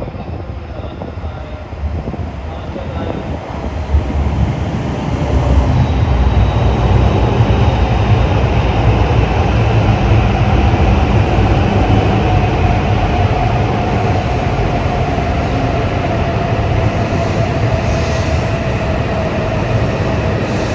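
E5 series Shinkansen train pulling into the station. Its rumble builds over the first few seconds and then runs loud and steady, with a whining tone that falls slowly as the train slows.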